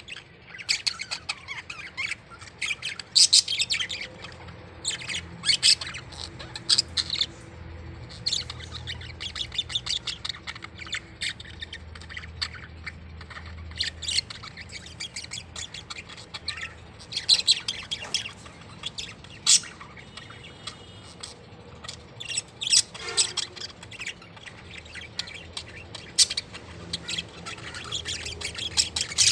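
Several parrots squawking and chirping in short, sharp, irregular calls, a squabble among the birds.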